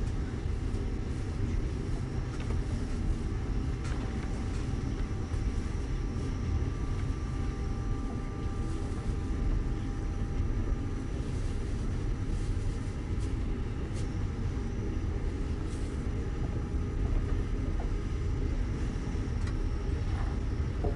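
Steady low rumble of a moving passenger train heard from inside the carriage, with a few faint clicks and a faint steady whine for several seconds in the middle.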